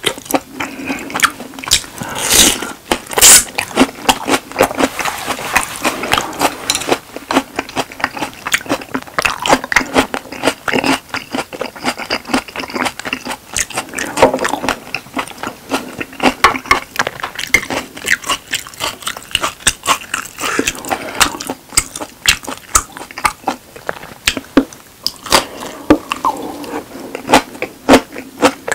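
Close-miked chewing of a thick beef steak: wet, sticky mouth clicks and smacking that keep on with no steady rhythm. A couple of louder sharp clicks come about two to three seconds in.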